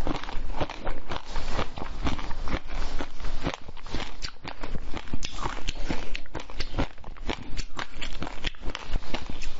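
Close-miked chewing of a red sprinkle-topped sweet, a dense run of irregular wet crunches and crackles.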